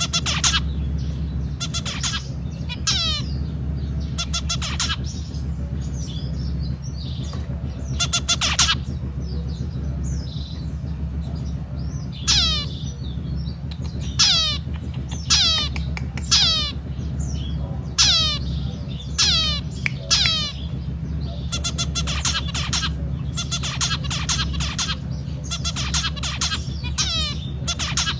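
Zebra finch calling and singing: repeated short falling calls and clusters of rapid buzzy notes, over a steady low hum.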